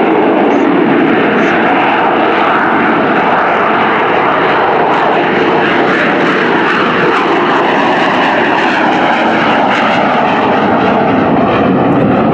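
AV-8B Harrier II Plus jet's Rolls-Royce Pegasus engine at high thrust during a short takeoff, loud and steady.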